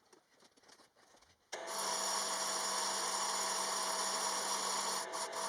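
Faint scraping, then about a second and a half in a power tool switches on and runs steadily with a whine, dipping briefly twice near the end.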